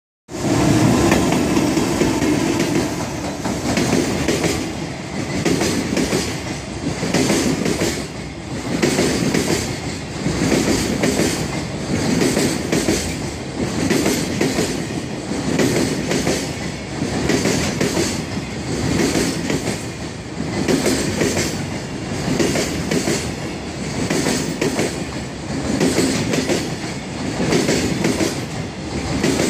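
Freight train passing, its wagon wheels clattering over the rail joints in a steady repeating rhythm.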